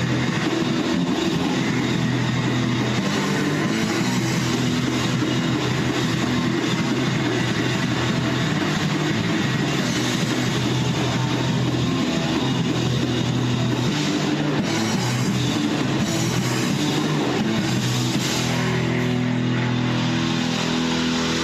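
Rock band playing live in rehearsal: distorted electric guitar with drum kit, loud and steady. Near the end the guitar settles into long held chords.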